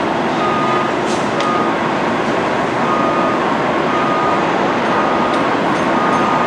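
Vehicle backup alarm beeping about once a second with a single high tone, over a steady wash of machinery and traffic noise.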